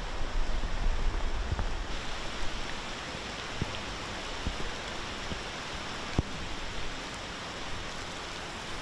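Steady rain falling on floodwater and wet ground, with a few sharp drops ticking close by. A low rumble under the rain for about the first two seconds, then the rain hiss alone.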